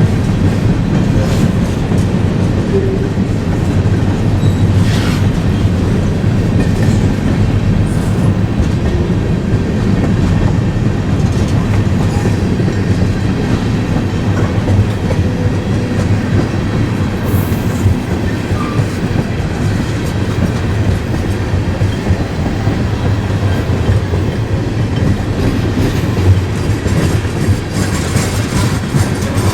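Freight train rolling past, a steady heavy rumble with the wheels clicking over rail joints.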